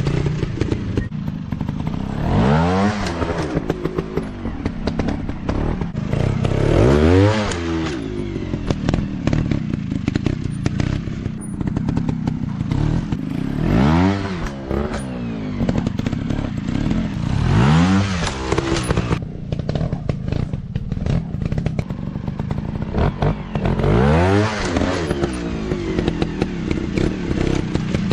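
Dirt bike engines running, with five surges in which an engine revs up and drops back again. Between the surges the engines keep up a steady, rougher drone.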